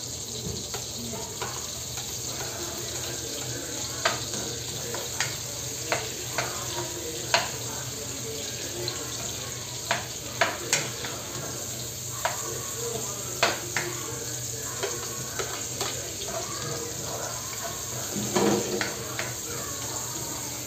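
Sliced red onions frying in hot fat in a nonstick wok, with a steady sizzle. A spatula stirs and scrapes the pan, making sharp taps now and then and a brief clatter near the end.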